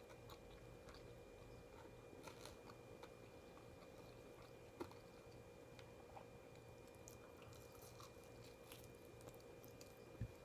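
Faint chewing of food: soft, irregular mouth clicks and small crunches over a steady hum, with a sharper click about five seconds in and another near the end.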